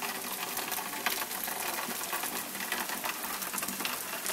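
Heavy rain pouring down steadily, a dense hiss of countless drops ticking and pattering.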